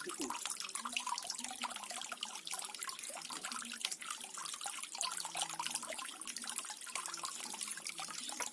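Small garden waterfall: water splashing and trickling steadily into a pool, with many small bubbling drips.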